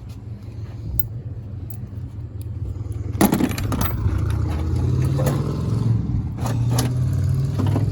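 A car engine idling steadily, growing louder from about three seconds in, with a sharp knock just after that and a few smaller clicks and scrapes.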